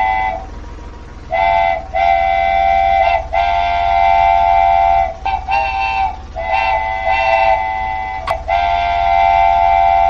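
A train horn sounding a string of blasts of uneven length, several steady tones sounding together, over a steady low rumble.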